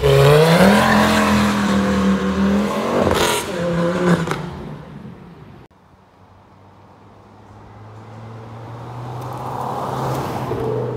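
Ford Focus ST225's turbocharged 2.5-litre five-cylinder engine pulling hard, its note rising then holding, with a sharp crack about three seconds in before it fades away. After a cut, the engine is heard again, growing steadily louder as the car approaches.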